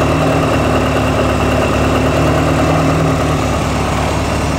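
Built Honda B20 VTEC inline-four (B20 block with a B16 head) running steadily at a constant speed, which the owner fears has an early rod knock.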